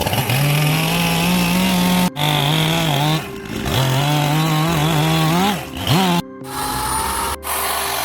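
Chainsaw running while cutting into wood, its engine pitch sagging and rising under load, with a sharp rev-up about five and a half seconds in. The sound cuts off abruptly a few times.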